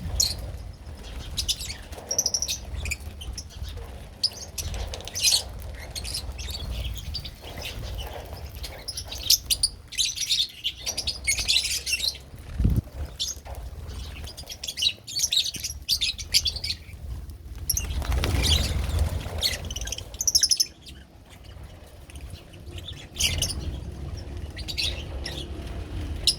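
A group of pet lovebirds chirping in quick, overlapping high calls, with a louder rustle of noise about two-thirds of the way through.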